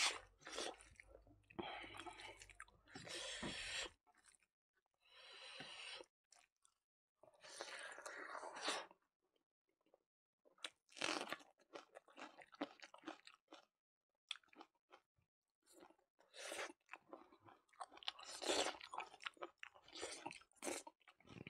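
Close-miked mukbang chewing: a man eating rice, pork and raw onion by hand, crunching and chewing in irregular bursts with short silent gaps between mouthfuls.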